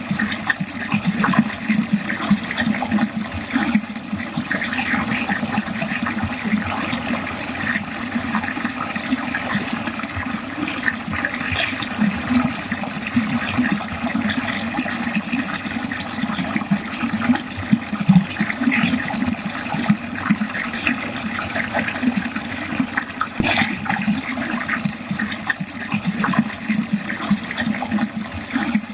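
Water running steadily down a drain, gurgling and splashing, with a few brief louder splashes.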